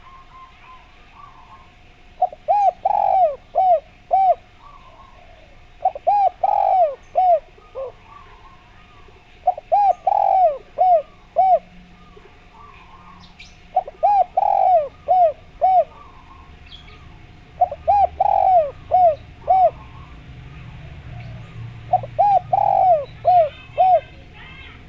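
Spotted dove cooing: six phrases of several quick coos each, repeated about every four seconds. Faint chirps of smaller birds come between the phrases.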